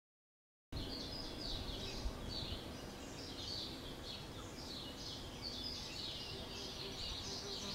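Silence, then about a second in outdoor ambience cuts in abruptly: small birds chirping over and over in the background, with a faint low hum underneath.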